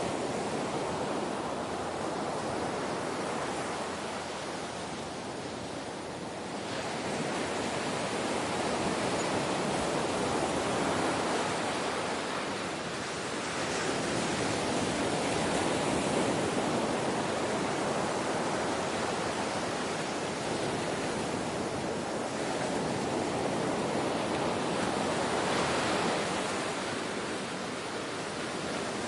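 Ocean waves washing in and out, a steady rushing surf that swells and eases every several seconds.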